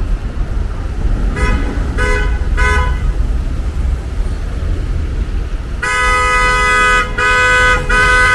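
A vehicle horn honks in street traffic: three short toots about a second and a half in, then long blasts, with two brief breaks, from near the end. A steady low traffic rumble runs underneath.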